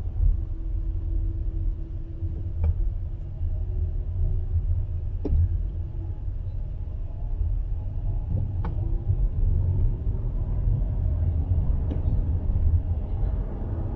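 Steady low rumble of a motor vehicle, with a faint hum and four short sharp clicks spread through it.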